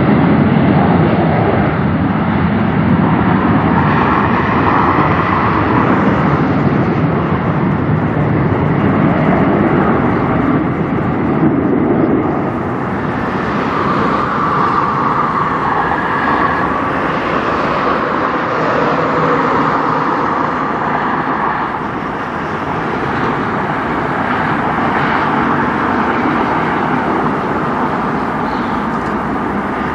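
Jet airliner engines running loud and steady during takeoff, a continuous rumble that changes tone about twelve seconds in.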